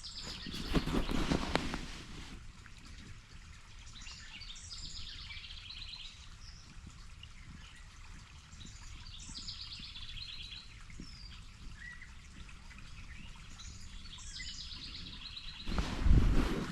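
A songbird repeats the same short song four times, a few high notes and then a quick trill, about every four to five seconds, over the faint steady trickle of a small creek. A loud low rumble just after the start and another near the end.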